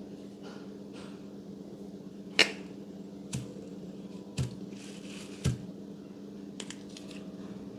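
Slime being handled and pressed by hand, with four sharp pops or clicks spaced about a second apart, the first the loudest, over a steady low hum.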